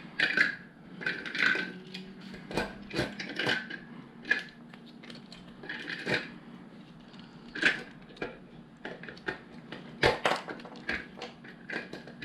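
Plastic LEGO pieces clicking and clattering as they are handled, with irregular sharp clacks coming a few times a second.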